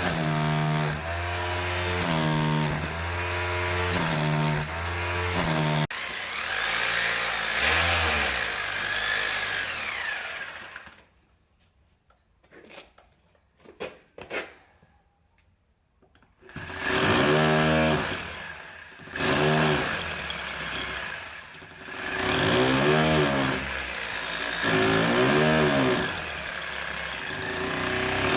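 Power drill drilling holes, running under load for about eleven seconds with a pulsing rhythm at first. It stops for a few seconds, with only a couple of knocks, then runs again in several short bursts whose pitch rises and falls as it speeds up and slows.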